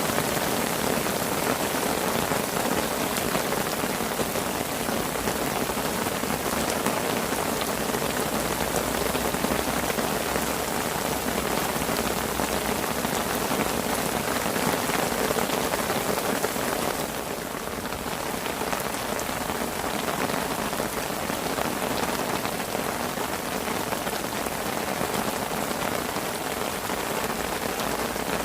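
Steady rain pattering on a fishing parasol canopy overhead: a dense hiss of drops with fine individual drop ticks, easing slightly for a moment about two-thirds of the way through.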